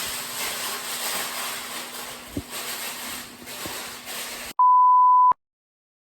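A steady hiss of background noise, then, about three-quarters of the way through, a loud, flat electronic bleep of under a second that starts and cuts off abruptly, an edited-in censor bleep followed by dead silence.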